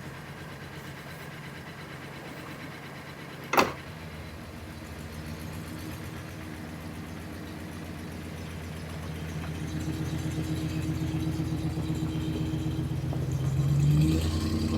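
A vehicle engine running at idle, with a single sharp knock about three and a half seconds in; the engine grows louder in the second half and briefly revs up near the end.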